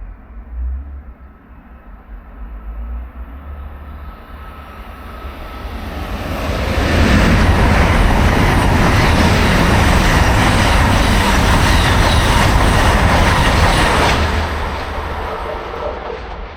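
A train approaching and passing close by on the main line, with rail and wheel noise. The noise builds over a few seconds, stays loud for about seven seconds, then fades.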